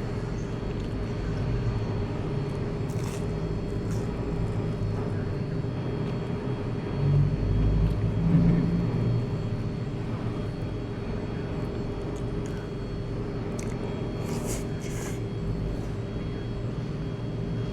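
Steady low rumble of road traffic, swelling louder for a couple of seconds midway as a vehicle goes by, with a few light clicks.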